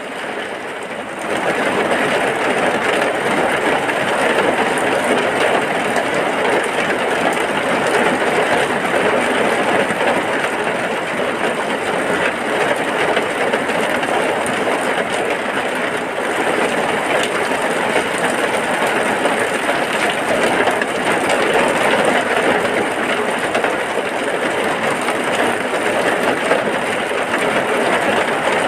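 Heavy rain falling in a steady, dense hiss, stepping up to a louder level about a second in.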